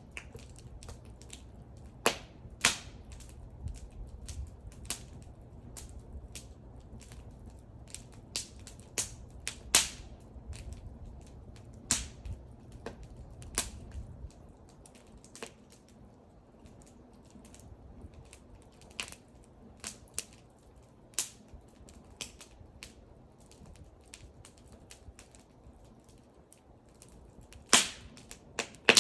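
Wood fire crackling: irregular sharp pops and snaps of burning wood, a few much louder cracks about two seconds in, around ten seconds in and near the end. A low rumble sits under the first half and stops about halfway through.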